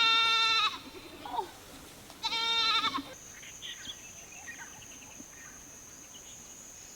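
Goats bleating: two long, wavering bleats about two seconds apart. A steady high-pitched tone sets in about three seconds in.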